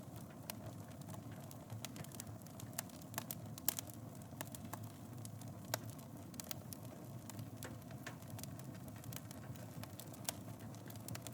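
Wood fire burning in a fireplace: a steady low rumble of flames with irregular crackles and pops, a few louder snaps about a third and halfway through.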